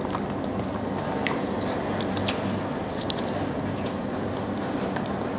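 Close-miked eating: biting and chewing a piece of aloo paratha with tomato sauce, with a few small clicks, over a steady low hum.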